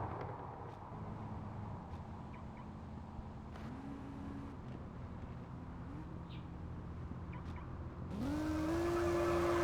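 Car engine idling with two short throttle blips, then revved hard about 8 seconds in and held at high revs for about two seconds.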